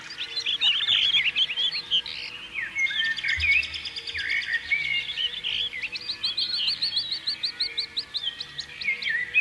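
Domestic canary singing: long phrases of fast trills and rapidly repeated chirps, changing from one rolled figure to the next.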